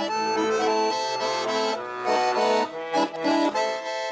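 Instrumental interlude of a song between sung verses, with an accordion playing the melody over sustained chords.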